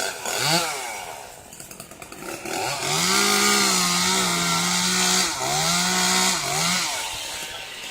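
Two-stroke chainsaw blipped up to speed once, then held at full throttle for about four seconds, cutting into eucalyptus wood, before dropping back to idle near the end.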